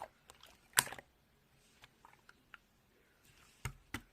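Clear slime being squeezed and poked, giving a few scattered faint clicks and pops: one about a second in and two close together near the end.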